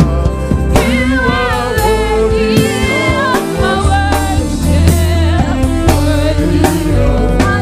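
Gospel choir singing with a band: sung melody lines over bass and a drum kit.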